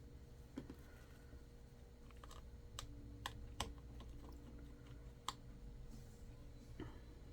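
Faint, scattered clicks of a small screwdriver and metal screws being worked out of an iPad 2's internals, about seven sharp ticks spread irregularly over a few seconds, with a steady low hum underneath.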